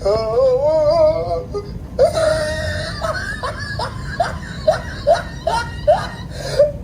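Comedy meme sound effect laid over the footage: a warbling, wavering pitched sound at first, then a held note followed by a run of short upward-sliding notes, about two to three a second, with a crying, whimpering character.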